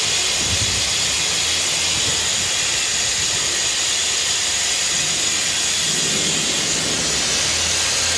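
Loud, steady hissing noise of running machinery, even throughout with no rhythm or distinct strokes.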